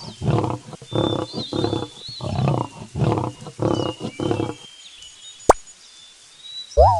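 A wild animal giving a rapid series of about seven rasping, roar-like calls, roughly two a second, which stop about two-thirds of the way through. Faint birdsong runs behind them, and a short rising-and-falling call sounds near the end.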